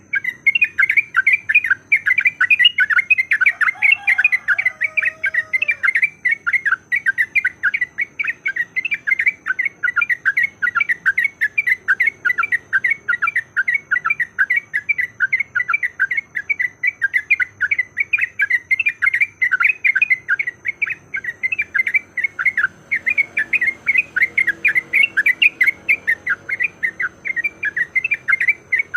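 Yellow-vented bulbul (trucukan) giving a rapid, unbroken chatter of short calls, about five a second, in its aggressive fighting mode. About four seconds in, a lower sliding call joins briefly.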